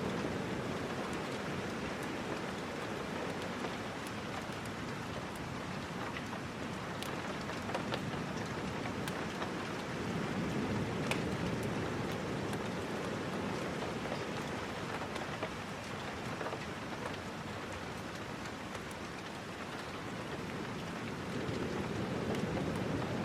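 Steady rain falling, with scattered small ticks and crackles. A low, fuller rush swells up about ten seconds in and again near the end.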